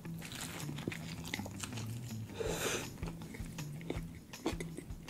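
Close-miked biting and chewing of a burger: wet mouth clicks and smacks at an irregular pace, with one short breathy rush about halfway through.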